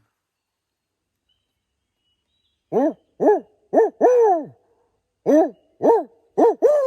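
Barred owl hooting its 'who cooks for you, who cooks for you-all' call: after nearly three seconds of silence, four hoots, a short pause, then four more, the last one sliding down into a long falling drawl.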